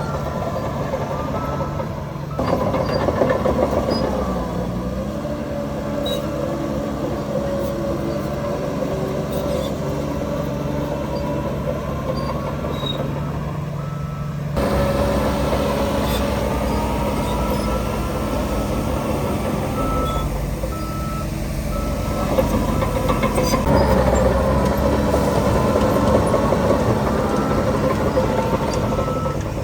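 Heavy diesel machinery running, its engine pitch rising and falling, with a reversing alarm beeping in stretches. The sound jumps abruptly twice.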